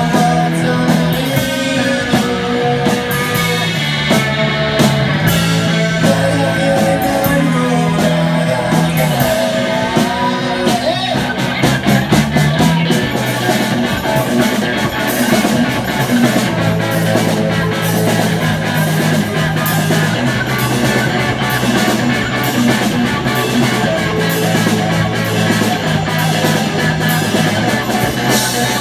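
Rock band playing live, with guitar, a bass line moving between held notes, and steady drum hits.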